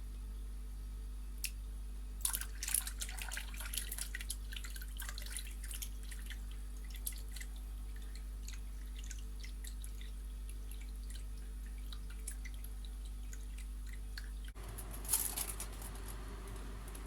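Liquid dripping and splashing in irregular small drops, busiest in the first few seconds and again briefly near the end, over a steady low hum.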